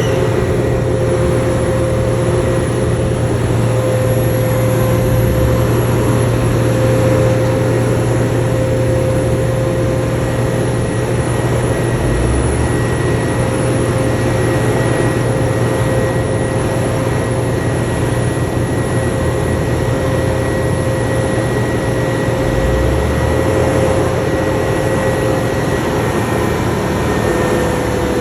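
Heavy diesel earthmoving machinery running steadily under load, a constant engine drone with a steady whine over it.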